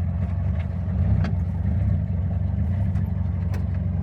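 VAZ-2106 (Lada) inline-four engine idling steadily, with a few faint ticks over it. The owner says the drive belt is squeaking and the timing chain is stretched and rattling, which he blames on a bad chain tensioner.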